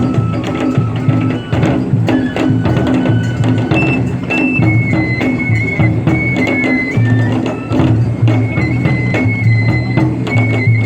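Japanese festival hayashi music: a single high piping melody over drums and sharp clicking percussion strikes.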